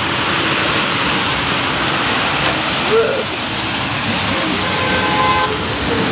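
Steady, loud rushing noise of a rainstorm.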